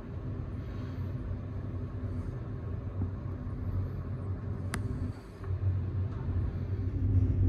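Train running: a steady low rumble, with one sharp click a little under five seconds in.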